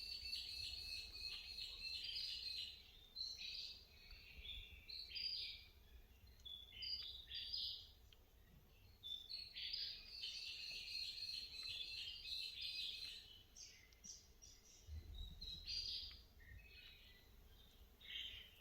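Wild birds calling: two long runs of rapid, high repeated chirping notes, with scattered shorter chirps in between.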